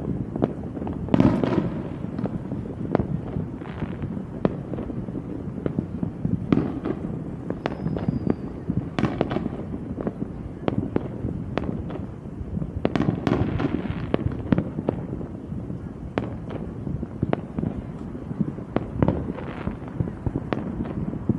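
Fireworks going off in a continuous string of sharp bangs and crackles, with denser flurries about a second in, around nine seconds and around thirteen seconds, and a short high falling whistle near eight seconds.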